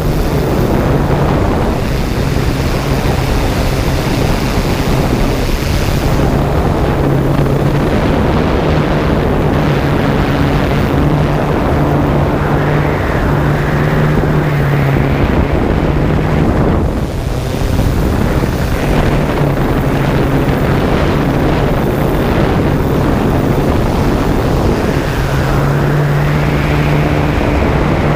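Toy quadcopter drone's propellers humming, the pitch wavering slightly as the motors change speed, under heavy wind noise on the microphone.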